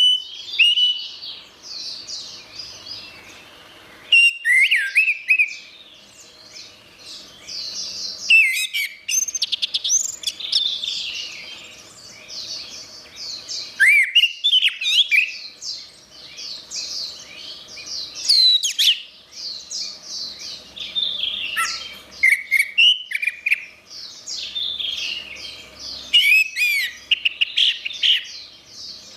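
Orange-headed thrush singing: a rich, varied song of loud whistled phrases, slurred notes and rapid trills, coming in bursts every few seconds with short quieter gaps between.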